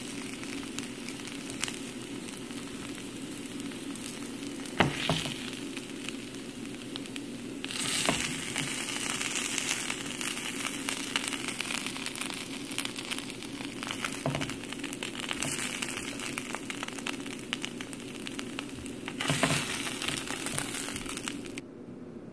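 Oil sizzling and crackling in a nonstick frying pan as slices of Chinese radish cake (turnip cake) fry, with one sharp knock about five seconds in. The sizzle grows louder about eight seconds in and cuts off abruptly near the end.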